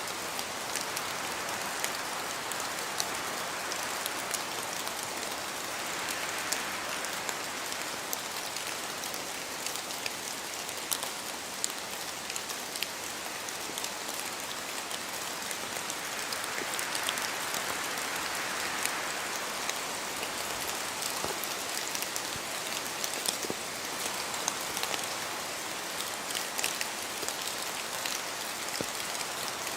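Steady rain falling in a forest, a continuous hiss dotted with many sharp individual drips of water dropping from the trees. The hiss swells a couple of times, as with gusts of wind through the trees.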